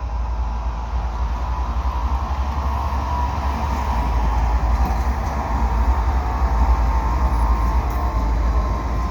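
CN double-stack container freight train rolling slowly past: a steady low rumble of wheels on rail that swells a little about halfway through.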